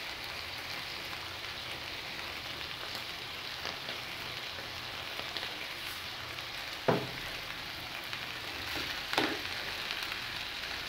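Steady sizzle of chopped tomato, onion, cilantro and chile frying in a little oil in an enamel pan as a plastic spoon stirs it. Two sharp knocks of the spoon on the pan come in the second half.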